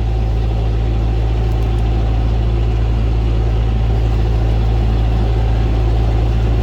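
Canal boat's diesel engine running steadily under way: a deep, even drone with no change in pitch or loudness.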